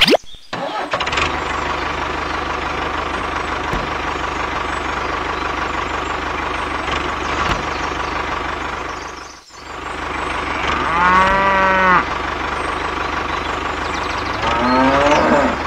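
Tractor engine running steadily, its sound dipping out briefly just past the middle. A cow moos once about eleven seconds in, with a shorter falling call near the end.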